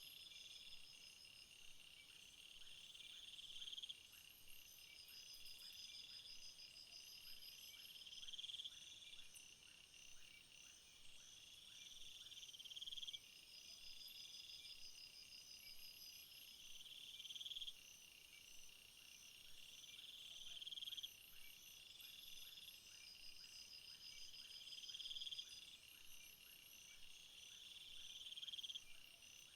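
Field insects, crickets and grasshoppers, trilling in a faint chorus of several overlapping high-pitched songs. The loudest song swells over a few seconds and then cuts off suddenly, repeating about every four seconds.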